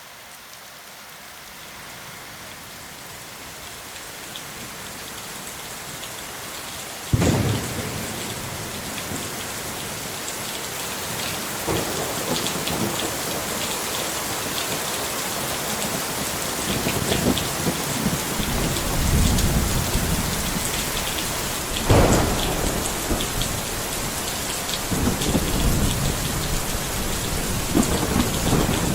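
Steady rain, swelling over the first few seconds, with thunder: a sharp crack about seven seconds in, another near the 22-second mark, and rolling rumbles in between and near the end.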